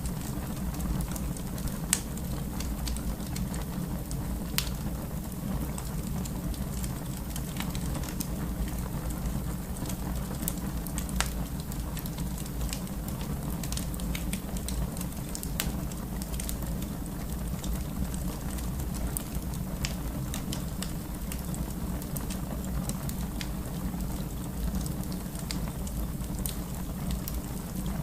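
Fireplace fire crackling: a steady low rumble scattered with sharp clicks and pops, the loudest pops about 2 seconds in and near 11 seconds.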